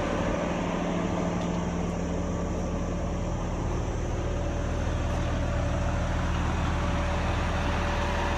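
Roll-off truck's engine idling steadily, a low even hum that does not change.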